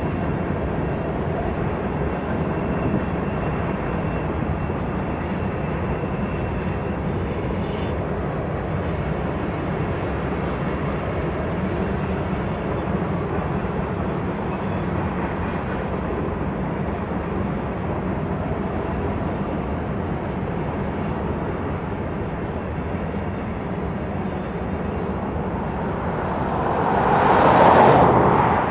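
Freight train cars of a grain train rolling past with a steady rumble of wheels on rail. Near the end, a brief louder whoosh swells and fades.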